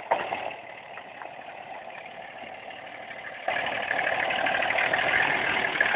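A truck's motor running steadily, growing markedly louder about three and a half seconds in.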